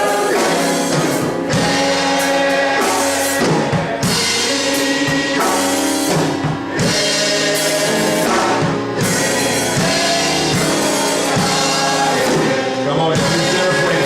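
Gospel music: singing carried over a full band with a drum kit keeping a steady beat.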